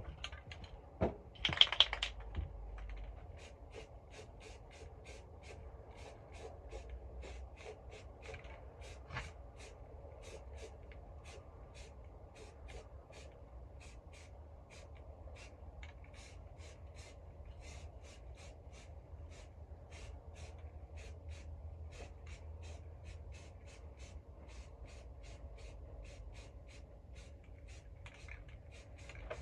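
Aerosol can of self-etching primer being shaken, its mixing ball rattling in regular clicks about three times a second.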